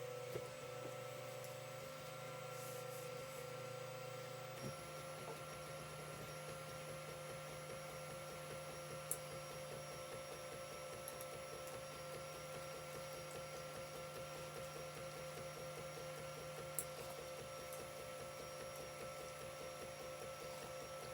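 CR-10 3D printer running a print: a steady motor and fan whine, joined about five seconds in by a fast, even rhythmic chatter of the moving print head, with a few sharp clicks.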